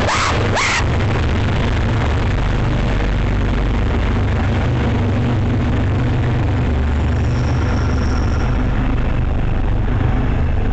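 Commuter rail diesel locomotive running close by, a loud steady heavy engine rumble, with a few short sharp bursts of noise in the first second.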